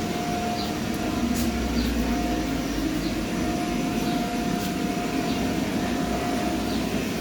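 Paint booth ventilation fan running steadily, a whir with a constant hum and faint high chirps about once a second.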